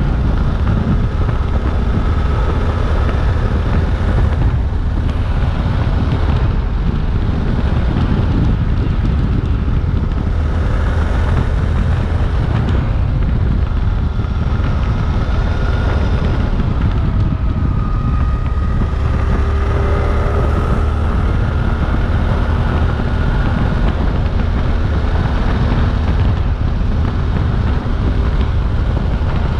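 Suzuki V-Strom 800DE parallel-twin engine running steadily while riding, under heavy wind buffeting on the microphone.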